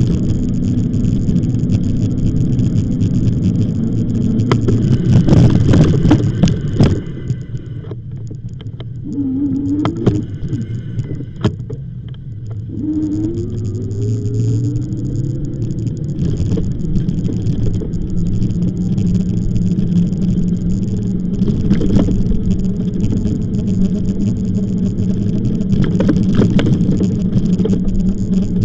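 Wind buffeting the microphone over the rumble of an e-bike being ridden. It eases off for a few seconds in the middle, where a short rising whine comes twice.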